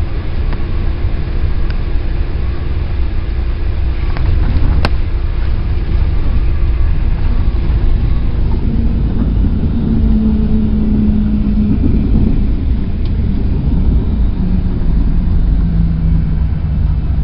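Cessna 172's four-cylinder piston engine and propeller running, a loud, steady low rumble. A single sharp click comes about five seconds in, and a humming tone shows in the second half, lower in pitch near the end.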